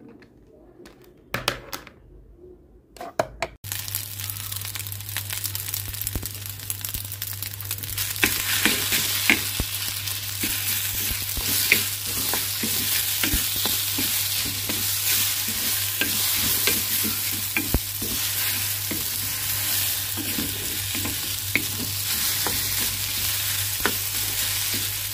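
Fried rice with egg and green onion sizzling in a hot metal pan while a wooden spatula stirs it, with frequent clicks and scrapes of the spatula against the pan over a steady low hum. A few separate knocks come first, then the sizzling starts abruptly about three and a half seconds in and cuts off at the end.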